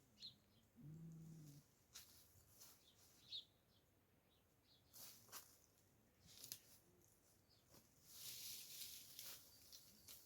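Faint outdoor quiet with a few small bird chirps, a short low animal call about a second in, and scattered light clicks and rustles.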